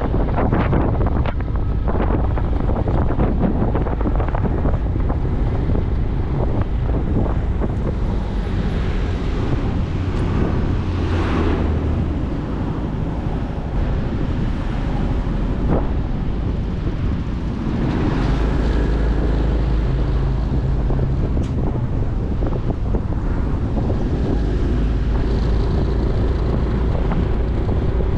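Wind buffeting the microphone of a moving motorcycle, with the engine and road noise running steadily underneath.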